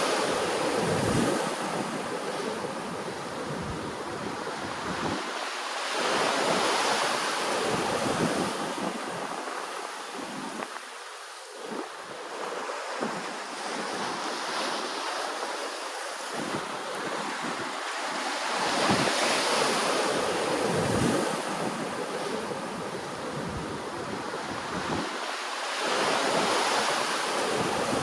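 Ocean waves washing ashore, the surf swelling and easing about every six to seven seconds, with wind buffeting the microphone.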